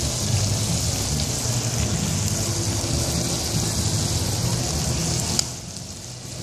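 Shrimp and squid rings sizzling in hot oil in a pan as they sear, a steady frying hiss over a low rumble. The sizzle drops away suddenly about five seconds in.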